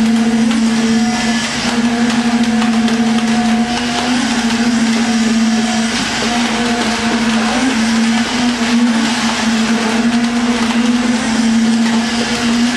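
Steady machine drone: a constant pitched hum under a noisy wash, unchanging throughout.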